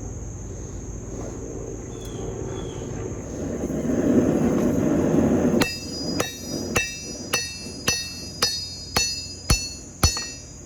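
A rushing noise swells for a second or two, then a 4-pound hand hammer strikes hot steel on a Paragon anvil nine times at an even pace of about two blows a second. Each blow rings: the flat face is planishing the tomahawk blade smooth.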